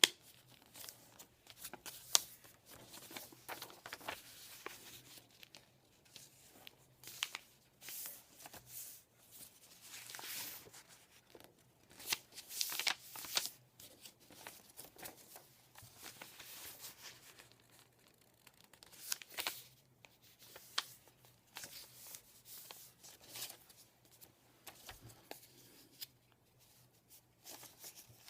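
A sheet of paper being folded and creased by hand into a paper airplane: intermittent rustles and short crisp crackles as the folds are pressed down, with a few louder bursts of handling.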